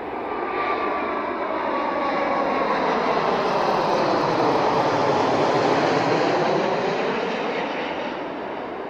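Airplane flying past, its engine noise swelling to a peak about five or six seconds in and then fading away, with a faint high whine near the start.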